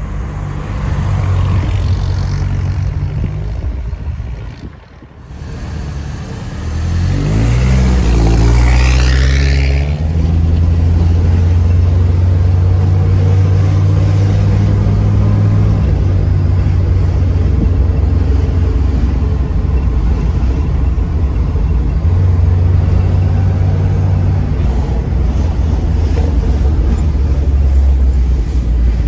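1979 Ford Pinto Squire wagon's engine running as the car is driven. A few seconds in, heard from inside the cabin, it accelerates with a rising pitch, then settles into a steady cruising drone.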